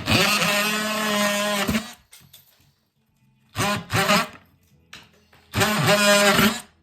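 A handheld electric power tool run in three bursts, the first about a second and a half long, the second short and the third about a second, its pitch sagging as each burst stops.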